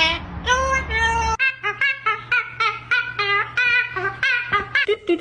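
A pet bird, likely a parrot, vocalizing in a quick series of short, high, warbling whistled notes, about three a second.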